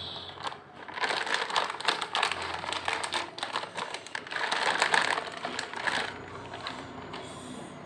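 Crunchy Lay's potato chips being chewed close to the microphone: a dense run of crisp crackles that thins out and grows fainter near the end.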